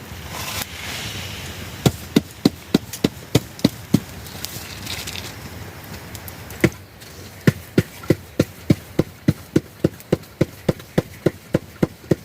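Knife chopping vegetables on a board in a steady rhythm of about three to four strokes a second, in a short run and then, after a pause, a longer run.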